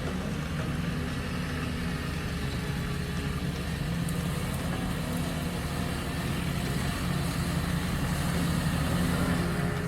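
Off-road vehicle engine running steadily at low revs, growing a little louder over the last few seconds.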